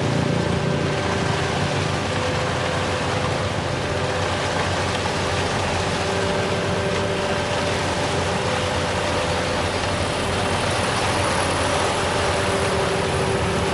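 Heavy diesel engine of a work machine running steadily, with a constant hum of several held tones over the engine noise.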